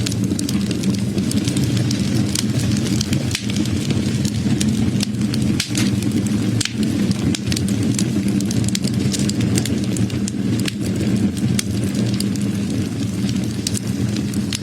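Wood fire crackling: many sharp, irregular pops and snaps over a steady low rumble of burning.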